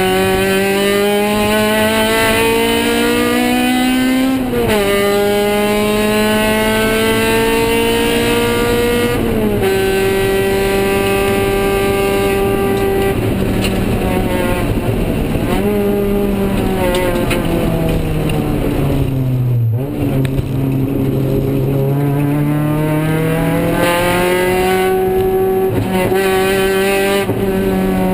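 Honda K20Z1 inline-four engine in a 1999 Civic sedan, heard from inside the cabin while lapping a race track. The revs climb under hard acceleration with two sharp gear changes, about four and nine seconds in, then fall away through braking and downshifts to a low point about twenty seconds in, before climbing again.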